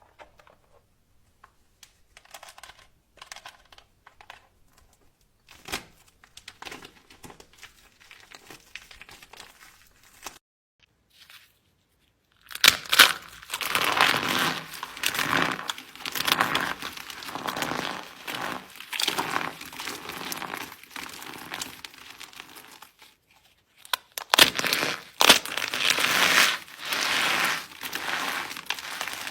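Soap being crushed and crumbled. Faint scattered crackles at first, then from about halfway a dense, loud crunchy crackling that breaks off briefly near the end and starts again.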